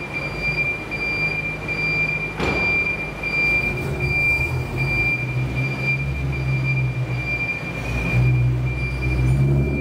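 BMW E92 M3's S65 V8, fitted with an aftermarket ASSIST exhaust, running with a low, steady rumble that echoes in a concrete parking garage. A sharp knock comes about two and a half seconds in, and a thin high whine runs alongside.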